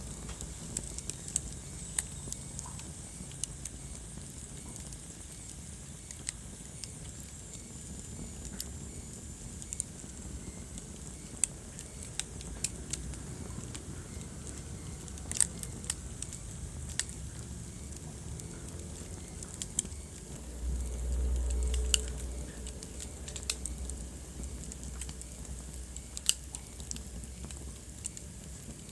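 Wood fire burning in a fireplace: irregular sharp crackles and pops over a steady low rumble of the flames, which swells louder for about two seconds late on.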